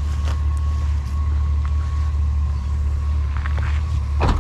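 Pickup truck engine idling with a steady low hum, a few light clicks of scrap being handled, and one loud knock about four seconds in.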